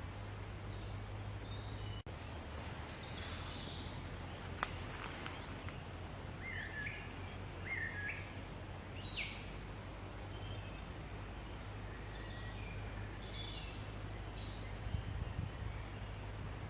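Several wild birds chirping and singing in short, quick phrases over a steady background hiss and low hum.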